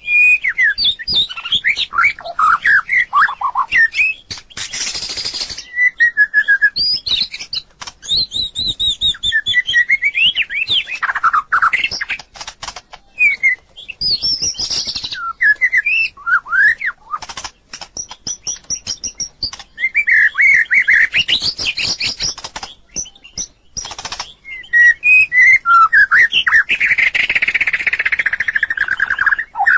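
White-rumped shama singing: a rapid, varied song of clear whistles and rising and falling slurred notes, run together with quick bursts of dry clicking notes.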